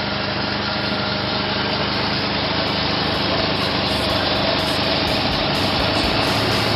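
1990 Mazda RX-7's 1.3-litre 13B twin-rotor Wankel engine running steadily at idle.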